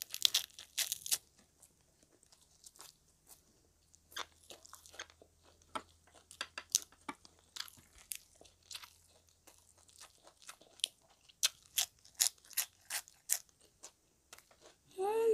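Close-up eating sounds: crunching and chewing of crispy fried frog wrapped in lettuce. A quick run of loud crunches comes in the first second, followed by irregular softer crunches and mouth clicks.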